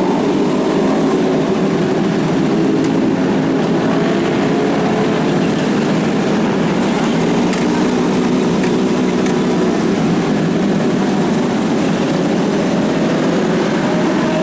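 Steady engine and traffic noise of superbike and car engines running, with one engine note rising near the end.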